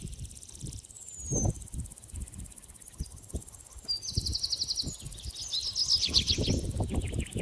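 Forest birds calling: a high falling whistle about a second in, a rapid even trill about four seconds in, and a quick run of falling chirps around six seconds. Irregular low thuds sound beneath them.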